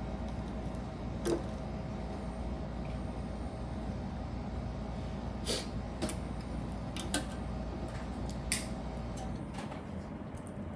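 A handful of sharp clicks and taps of plastic Lego pieces being handled and pressed together, over a steady low background hum that drops away near the end.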